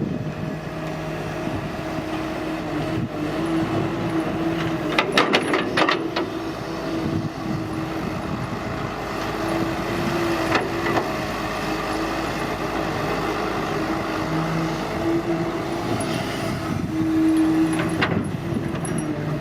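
Excavator's diesel engine running steadily under work, with a cluster of sharp knocks about a third of the way in and single knocks around the middle and near the end.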